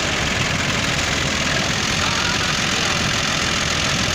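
Universal U533 tractor engine running steadily at idle, with a fast, even pulsing beat.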